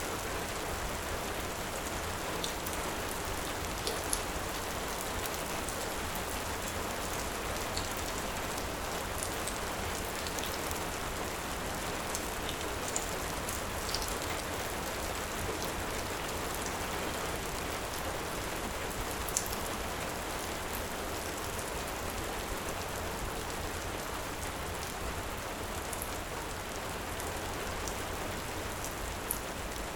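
Heavy rain falling steadily, with a few sharp ticks scattered through it.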